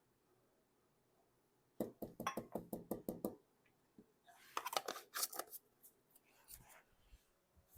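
Kitchen clatter of utensils and dishes: a quick run of knocks and clicks, then a second denser clatter about a second later, followed by a few light scattered clicks.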